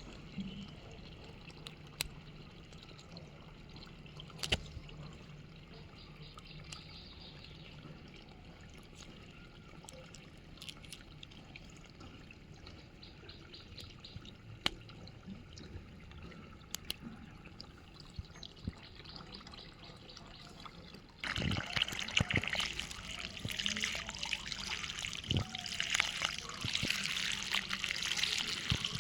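Faint background with occasional sharp clicks, then, about two-thirds of the way in, water suddenly starts running and splashing loudly, with clicks and knocks mixed in.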